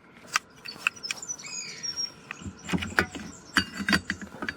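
A bird chirping a few times about a second in, among scattered clicks and knocks of gear being handled.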